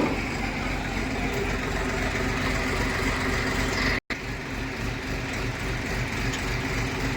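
A heavy diesel engine running steadily, with a brief moment of silence about four seconds in.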